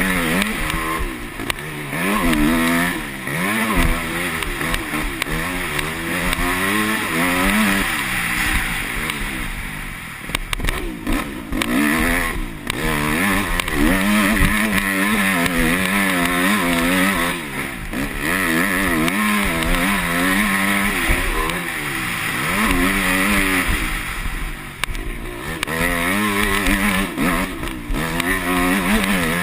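Yamaha YZ250F four-stroke motocross bike engine revving up and down repeatedly as the rider works the throttle and gears around the track, heard from on board with wind noise on the microphone.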